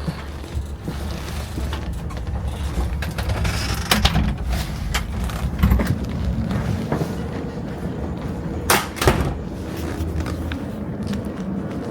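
Class 455 electric multiple unit running, heard from on board: a steady low rumble with several sharp knocks and rattles, two of them close together about three quarters of the way through.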